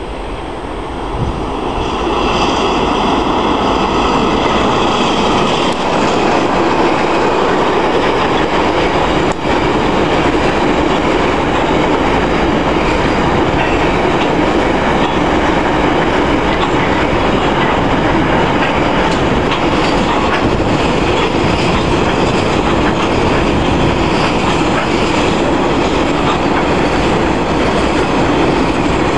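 Coal train passing close by: the DXC and DFT diesel-electric locomotives go by with a loud rise and a high whine in the first few seconds, then a long string of loaded coal wagons rolls past in a steady, loud rumble of wheels on rail.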